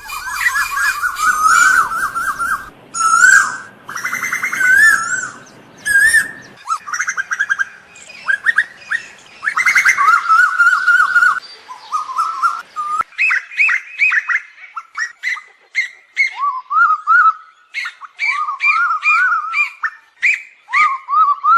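Asian koels calling: many quickly repeated, bending call notes from several birds overlapping at different pitches.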